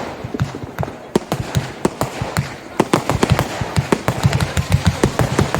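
Consumer fireworks going off in quick, irregular succession: many sharp bangs and crackling pops, coming thicker and louder from about three seconds in.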